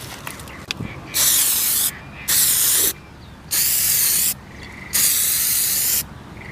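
Aerosol spray can being sprayed in four short hissing bursts, each under a second long, with brief pauses between them as letters are written on a car.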